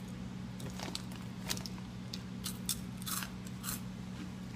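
Close-up chewing of Crunchy Cheetos: a run of crisp, irregular crunches over a steady low hum.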